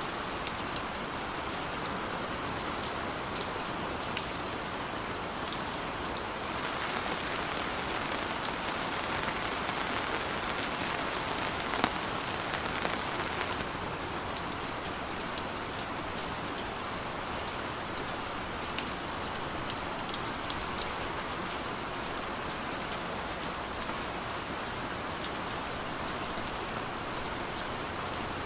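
Heavy rain falling steadily, with scattered sharp drop ticks; it gets heavier for several seconds in the middle, then eases back.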